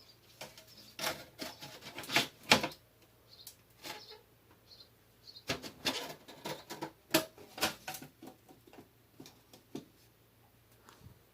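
Irregular clicks and taps of hands handling small objects, in two busy clusters about two seconds and six to eight seconds in.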